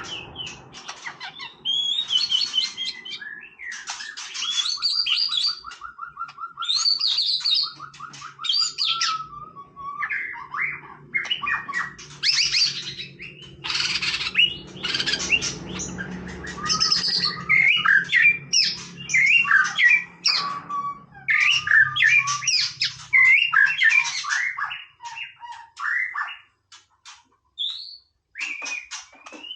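White-rumped shama singing a long, varied song of whistled and chattering phrases, with a rapid buzzy trill lasting several seconds about four seconds in. The song thins to a few scattered notes near the end.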